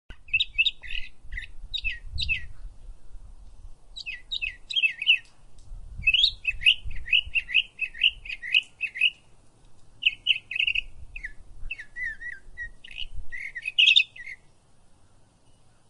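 Bird chirping in quick bouts of short, high, down-sweeping notes with brief pauses between bouts. The chirping stops about a second and a half before the end.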